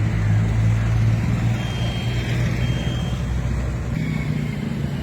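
Car engine running steadily with a low hum, its pitch stepping up slightly about four seconds in.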